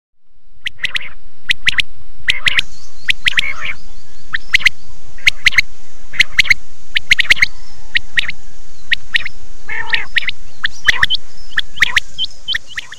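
Many birds chirping and squawking in quick, irregular succession, short sharp calls packed closely together, fading in at the start and out near the end.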